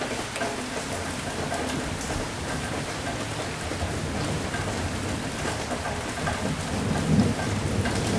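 Steady heavy rain, with a low rumble of thunder swelling near the end.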